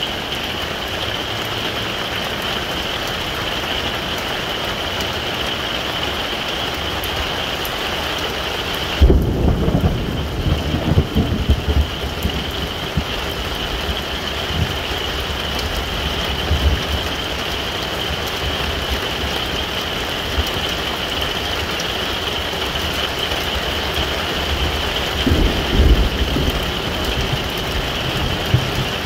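Heavy rain beating on a pop-up camper, heard from inside as a steady hiss. Low rumbles of thunder come about nine seconds in and last a few seconds, then come again shortly before the end.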